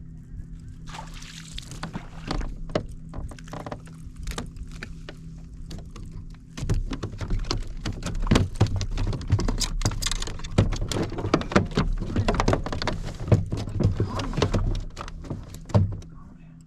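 Knocking and clattering on a plastic fishing kayak's hull and deck, over a steady low hum. It starts with scattered knocks, then from about six seconds in turns into a dense run of loud thumps and rattles that dies down near the end.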